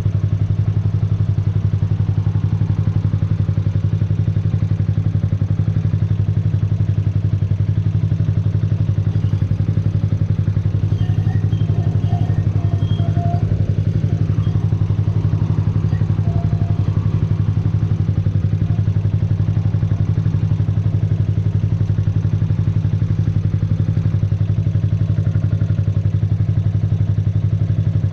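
2009 Yamaha YZF-R125's 125 cc single-cylinder four-stroke engine running steadily at a constant, low engine speed, as at idle, with no revving.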